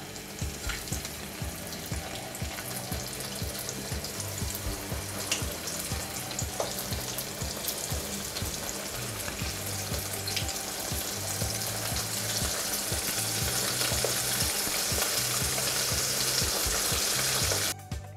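Batter-coated prawns deep-frying in hot oil, a crackling sizzle with scattered pops that grows steadily louder as more prawns go into the oil. The sizzle cuts off suddenly just before the end.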